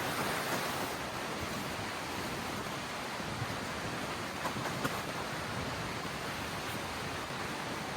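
Mountain stream flowing steadily, an even rush of water, with a few faint clicks about halfway through.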